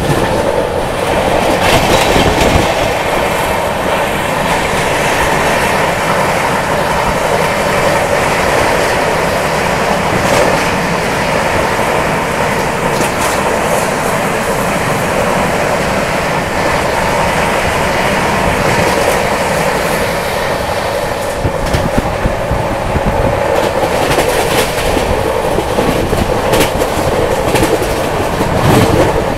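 Express passenger train running at speed, heard from an open coach door: steady wheel-on-rail rumble and wind, with scattered sharp clacks from the wheels. A container freight train passes on the adjacent track.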